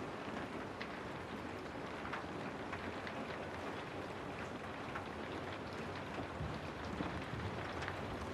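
Steady rainfall, with individual drops tapping out clearly here and there over the even hiss. A faint low rumble comes in during the second half.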